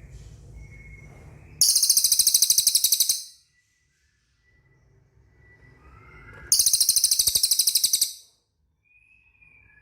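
Small bird, the kind called cililin in Indonesian, giving two loud, very high-pitched rapid trills of about a second and a half each, a few seconds apart, with faint softer chirps between them.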